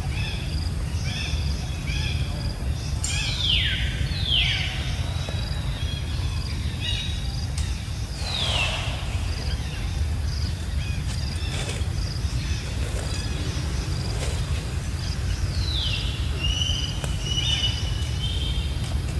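High animal calls over a steady low rumble: quick repeated chirps at first, then four separate whistled calls that each slide down in pitch, the last trailing into short chirps.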